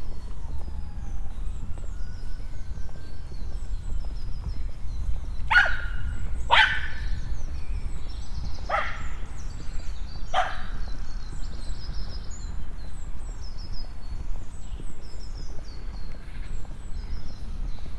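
A dog barks four times, spread over about five seconds in the middle, while small birds chirp throughout over a steady low rumble.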